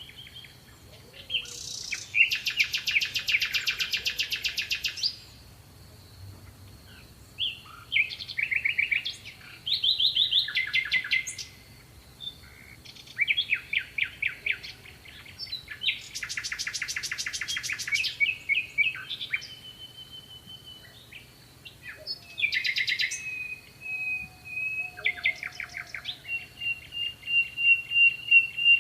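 Small songbirds singing in fast, high trills. Two loud, rapid trills last about three seconds each, shorter chirps and whistles come between them, and a thin steady high tone sounds underneath.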